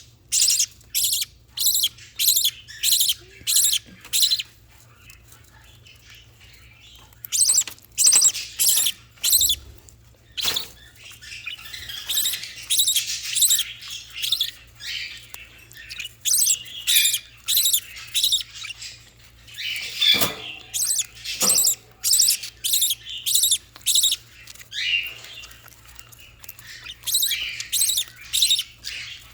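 Baby budgerigars giving shrill, repeated begging cheeps, about two a second, in runs with a quiet pause a few seconds in: nestlings begging to be fed.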